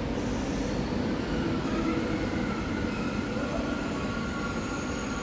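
Passenger train moving through a station: a steady low rumble, with a thin high-pitched whine of wheels or motors coming in about halfway.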